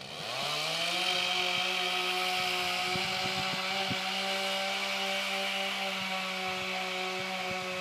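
Chainsaw engine revving up within the first second, then held at high, steady revs.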